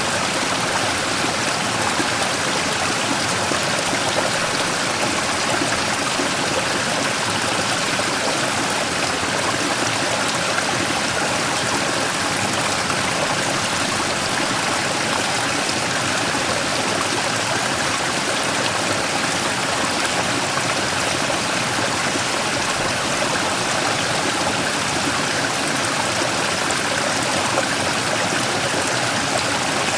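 Mountain stream flowing and splashing over a large rock in a steady, even rush of water.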